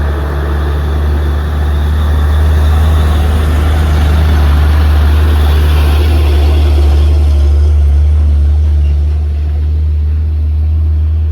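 Heavy truck's diesel engine running loud and steady under load on a climb, a deep drone with a roar above it that eases off somewhat in the last few seconds.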